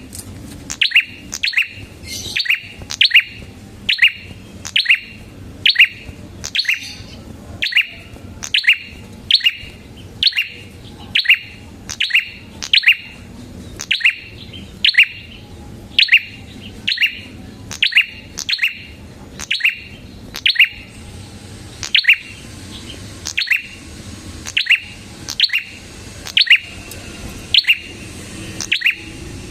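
Red-headed prenjak calling with loud, sharp chirps that sweep downward in pitch, repeated steadily about one to two times a second, often in quick pairs.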